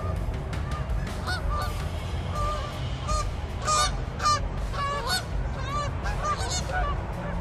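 Geese honking, many short calls overlapping one another, loudest in the middle stretch, over a steady low rumble.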